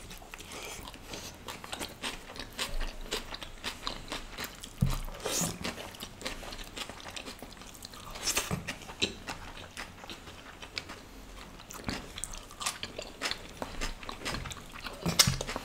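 Close-miked chewing and biting of chilli cheese paneer: irregular clicks and smacks from the mouth, with a few louder bites.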